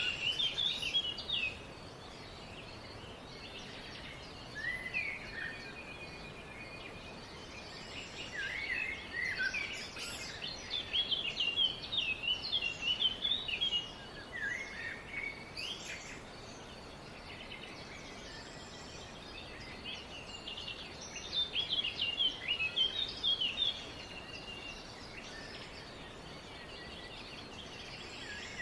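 Songbirds chirping and trilling in quick bouts of high notes, with pauses of a few seconds between bouts, over a steady faint background hiss.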